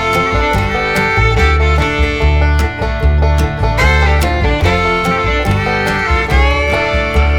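Background music with a steady beat: a bluegrass or country tune with fiddle and plucked strings.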